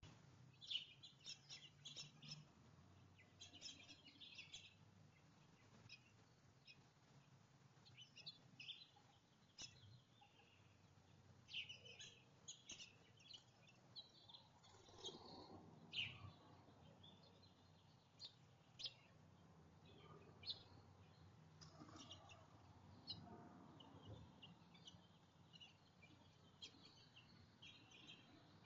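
Small songbirds chirping faintly: many short, high chirps and twitters scattered throughout, over a quiet background hiss.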